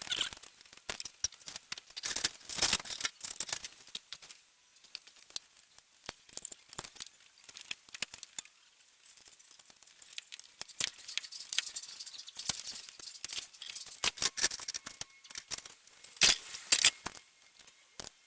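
Irregular light metallic clicks, rattles and short scraping rubs from hand work on engine parts, with quieter gaps in the middle and a cluster of louder clicks near the end.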